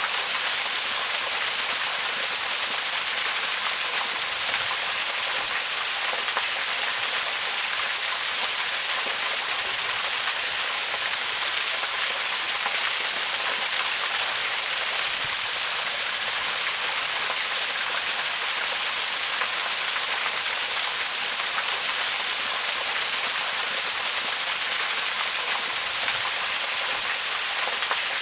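Waterfall: a steady, unbroken rush of falling water, a hiss weighted toward the high end with little low rumble.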